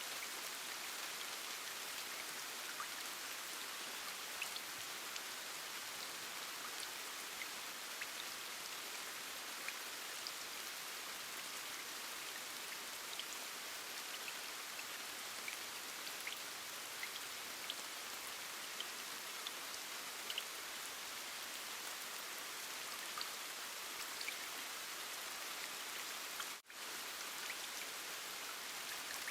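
Steady rain, an even hiss with scattered small drop ticks. It cuts out for an instant near the end.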